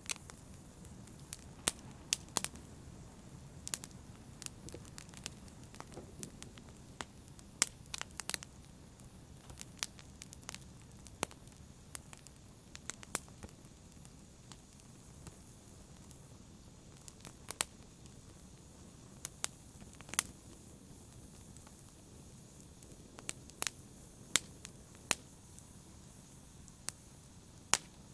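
Wood fire crackling: irregular sharp pops and snaps over a low, steady rush of burning.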